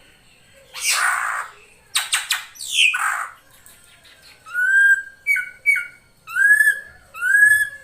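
Female drongo calling: a few harsh, rasping calls in the first half, then five clear whistled notes, three longer ones that rise and level off and two short ones between them.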